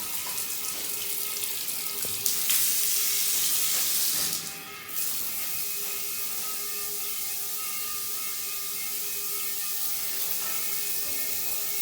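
Water running from a bathroom tap, a steady rushing hiss that cuts out briefly about four and a half seconds in, then runs on.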